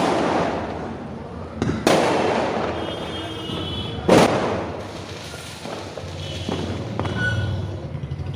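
Fireworks going off: three sharp bangs, at the start, about two seconds in and about four seconds in, each trailing off into a long fading rumble.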